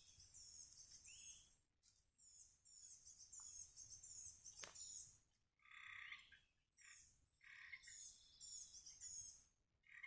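Faint songbird singing: repeated phrases of rapid, high-pitched chirps, joined by a few lower notes in the second half, with a single sharp click about halfway through.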